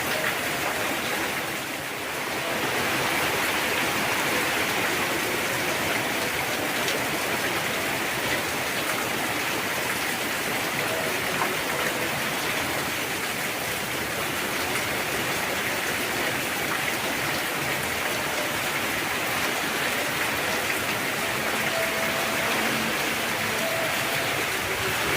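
Heavy rain falling steadily, a dense even hiss of water without a break.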